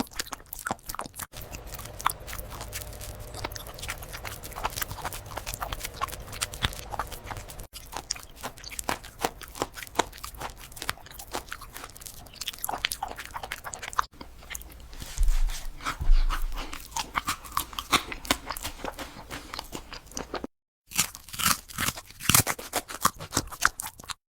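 A dog crunching and chewing food: a dense, uneven run of crunches broken by a few abrupt cuts.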